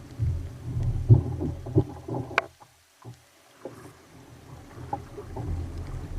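Water sloshing and slapping against a kayak's hull in rough sea, with scattered knocks on the hull. A sharp click a little over two seconds in is followed by about a second of near silence before the water sounds return.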